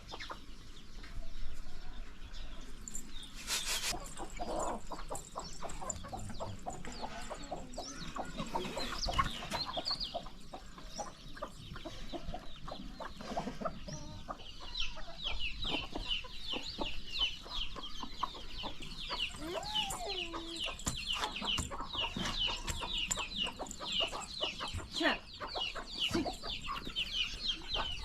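Chickens clucking, with scattered knocks and clicks; from about halfway a dense run of quick high chirping sets in and keeps going.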